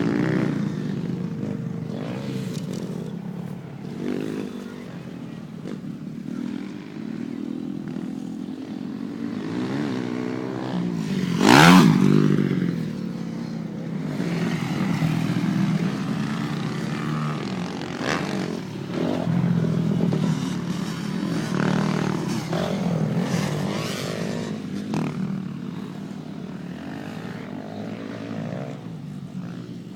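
Motocross dirt bike engines revving up and easing off as the bikes ride the track, the pitch rising and falling throughout. The loudest moment is a sharp swell about twelve seconds in.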